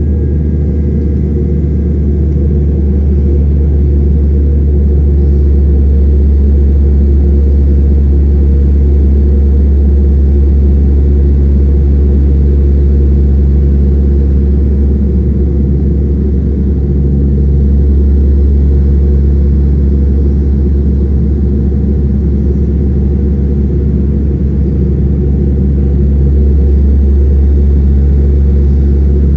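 Dash 8-300's turboprop engines and propellers running, a loud, steady low drone with a constant deep hum.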